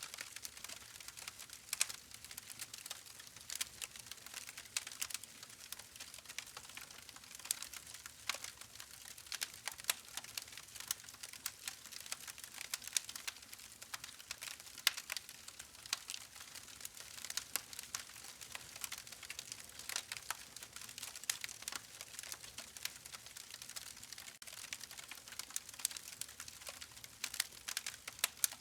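Campfire crackling: a steady stream of irregular sharp pops and snaps from burning wood, over a soft hiss.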